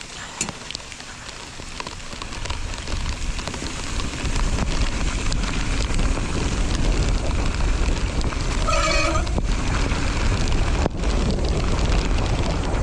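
Mountain bike setting off down a wet dirt trail: wind rushing over the rider-mounted camera's microphone and tyre noise build over the first few seconds into a steady loud rumble. A brief squeal sounds about nine seconds in.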